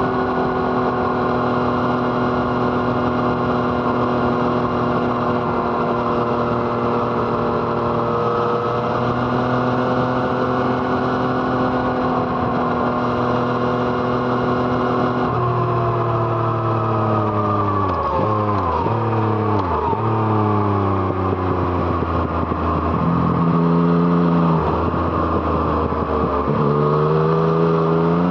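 Yamaha MT-09's three-cylinder engine through an Arrow Thunder aftermarket exhaust, running at a steady engine speed for about fifteen seconds, then falling off with several sharp dips and recoveries in pitch, then revving up again near the end.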